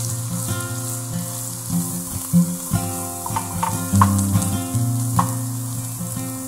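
Tempeh cubes shallow-frying in hot oil in a pan, a steady sizzle as they are stirred with a spatula, with a few sharp ticks in the middle.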